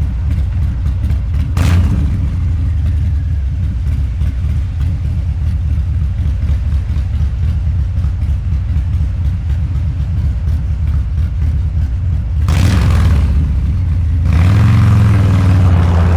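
Harley-Davidson Low Rider's 129 cubic inch V-twin running through a Two Brothers Racing exhaust while riding, with a steady rapid exhaust pulse. It gets louder near the end as the engine pulls harder and its pitch rises slightly.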